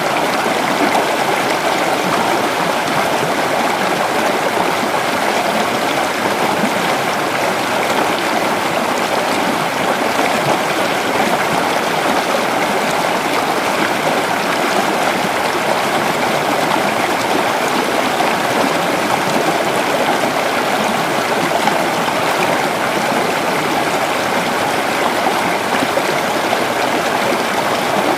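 Creek water flowing steadily over rocks, a continuous rushing and babbling.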